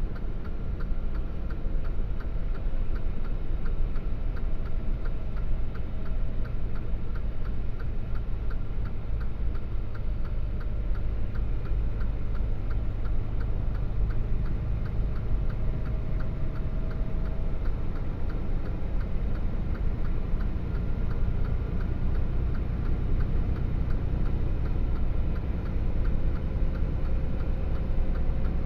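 Low steady engine and road rumble inside a truck's cab, with a faint regular ticking at even spacing over it.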